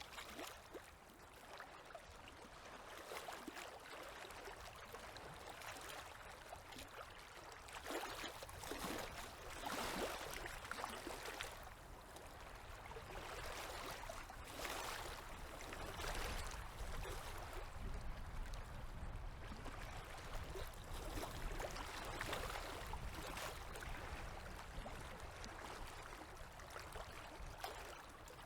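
Small river waves lapping and washing at the shore, a soft irregular wash that swells every few seconds.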